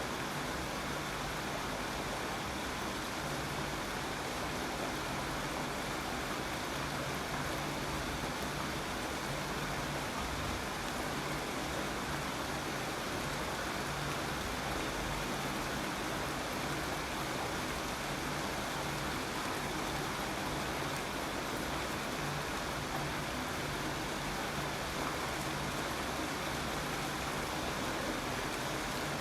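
Steady rain falling, a continuous even hiss of rainfall with no breaks or single loud drops.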